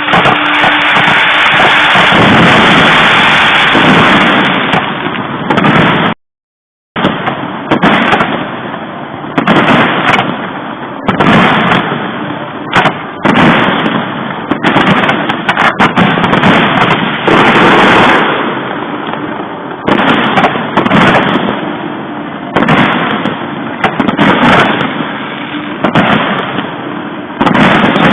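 Fireworks display: a dense, loud barrage of shell bursts and crackling, the bangs coming every second or so. The sound cuts out completely for under a second about six seconds in.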